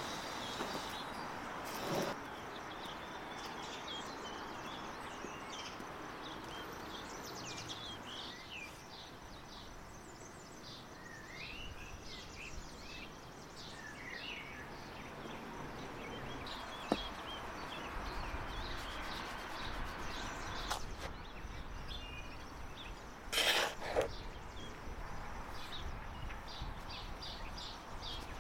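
Small birds chirping and singing over steady outdoor background noise. There is a sharp click about midway and a brief, louder knock late on.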